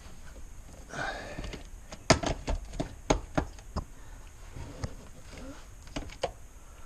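Sharp clicks and knocks of car interior parts being handled and worked loose: a quick run of about a dozen from about two seconds in, then a few scattered ones near the end.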